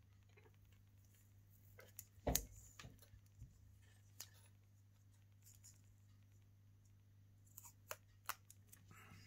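Faint scattered clicks and ticks of small hand tools working on a phone logic board while the insulating layer on its back is being removed. The loudest click comes about two seconds in, and a few more come near the end.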